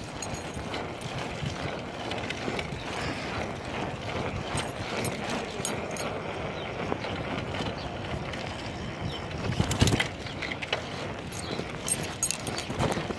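Bicycle being ridden: a steady rattle and clatter of the bike with many small clicks, and one louder knock about ten seconds in.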